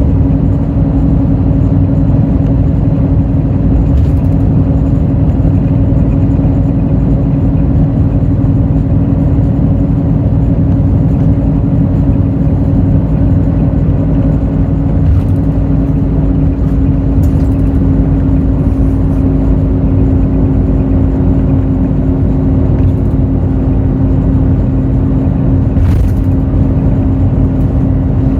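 Hino J08E-VD inline-six turbo diesel of a Hino RN8J bus running at steady speed, heard from inside the cabin: a loud, even engine drone holding one pitch, with a few faint clicks of cabin rattle.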